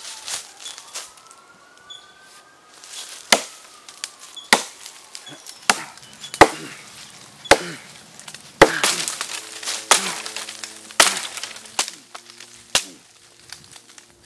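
Wood being chopped: about ten sharp, loud blows roughly a second apart.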